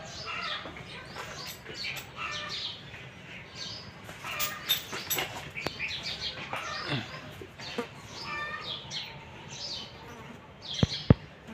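Small birds chirping in short, quick, high calls over and over, with two sharp knocks close together near the end.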